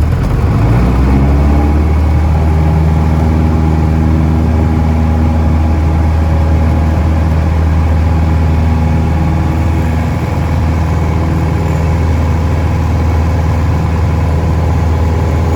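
Cessna light aircraft's piston engine and propeller rising in pitch over the first two seconds as power comes up, then running at a steady drone.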